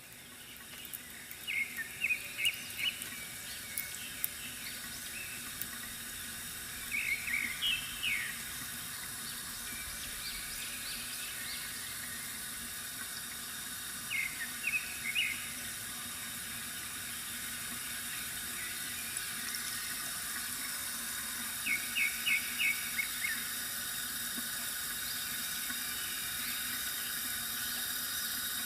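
Bamboo water fountain trickling steadily, with a small bird's quick chirps coming in four short bursts.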